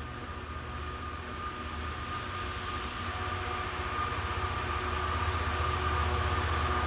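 Class 66 diesel locomotive's two-stroke EMD V12 engine working under power on an approaching freight train, growing steadily louder, with a steady high whine over the low engine throb.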